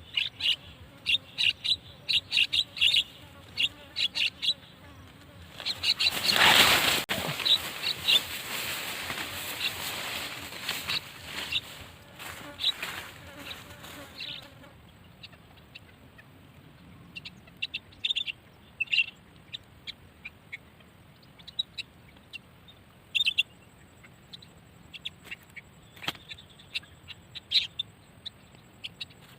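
Jalak (starling) calls used as a bird lure: a quick run of sharp, high chirps, then a loud rushing noise lasting several seconds, then scattered chirps again.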